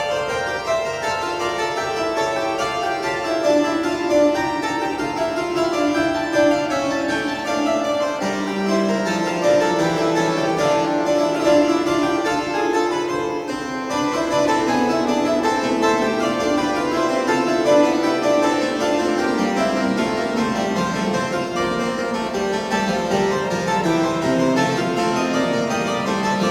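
Pipe organ playing a piece in several voices at once, held notes moving steadily, with a short break in the upper notes about halfway through.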